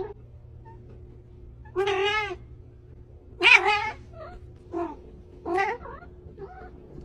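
A cat meowing: two drawn-out meows, the second the loudest, followed by several shorter, quieter meows.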